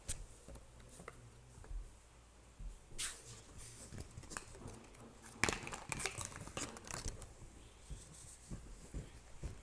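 Crinkling and rustling of something being handled close by, with scattered short clicks; it gets busier about halfway through.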